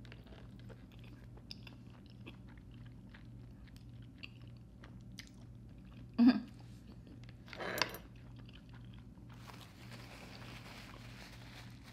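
A person chewing a mouthful of soft, creamy fettuccine Alfredo noodles, with small wet mouth and lip sounds, and two brief louder mouth sounds about six and eight seconds in.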